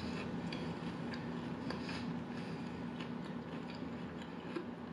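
A person chewing food close to the microphone, mouth closed: soft, scattered wet mouth clicks, a few each second, over a faint steady hum.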